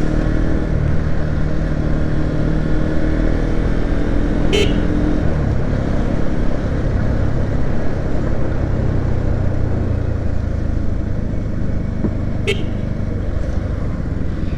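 Motorcycle engine running under way in town traffic, its note dropping about five seconds in as the bike slows. Two short horn toots, about four and a half seconds in and near the end.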